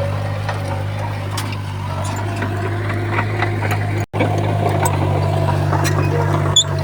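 Heavy diesel engine of a Komatsu bulldozer running steadily, with scattered light clicks and clanks over it. The sound cuts out for an instant about four seconds in, then resumes.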